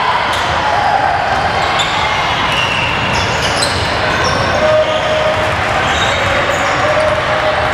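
Basketball game in a gym: sneakers squeaking on the court and a ball bouncing, over the constant chatter of spectators' voices.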